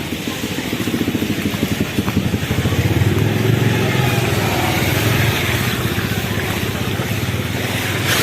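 An engine running with a fast, even pulse, getting louder about three seconds in.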